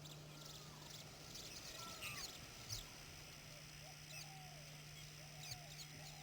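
Several birds calling faintly: many quick high chirps with a few lower slurred whistles among them, over a steady low hum.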